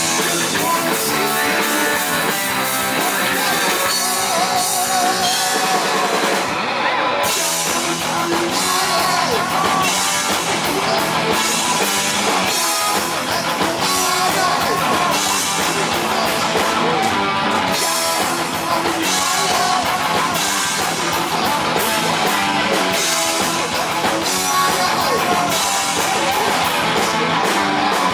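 Heavy metal band playing live, with distorted electric guitars over a driving drum kit, loud and unbroken.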